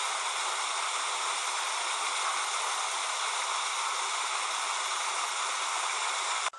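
Steady rushing noise of falling or running water, such as a fountain or stream, cutting off abruptly near the end.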